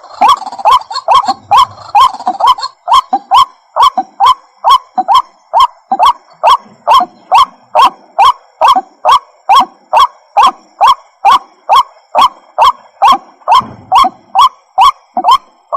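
White-breasted waterhen calling: a fast, steady series of short rising notes, about three a second.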